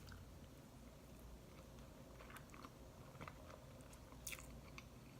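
Faint chewing and mouth sounds of a person eating spaghetti and bread, with scattered small wet clicks and a slightly louder one about four seconds in.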